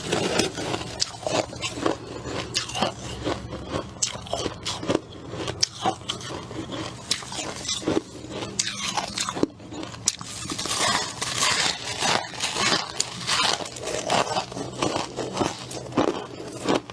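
Close-up crunching of freezer frost being bitten and chewed, a dense run of irregular sharp crunches and crackles.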